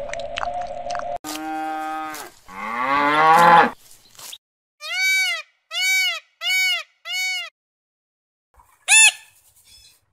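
A run of separate animal calls. First a long, low, mooing call that holds steady and then rises. Then four evenly spaced, arched calls of an Indian peafowl. A short, sharp scarlet macaw squawk comes near the end.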